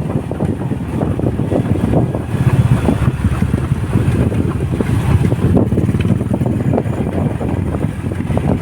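Wind rushing over the microphone of a moving motorcycle, with the engine and road noise running steadily underneath.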